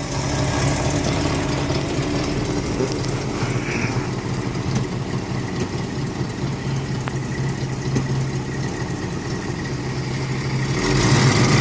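1979 Ford Bronco's 460 big-block V8 idling steadily, getting a little louder near the end.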